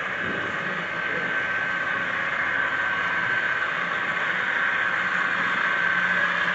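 Model train running on the layout track: a steady hum with a thin high whine.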